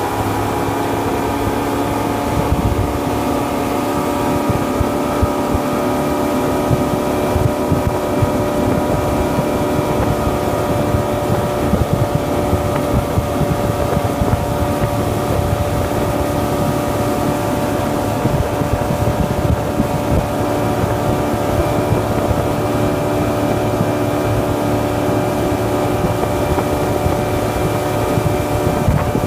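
Yamaha 130 hp outboard motor on a bass boat running at a steady, unchanging speed, in good running order.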